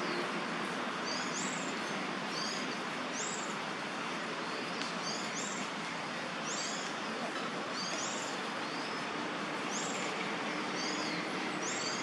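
Short high bird chirps repeated roughly once a second over a steady background hiss.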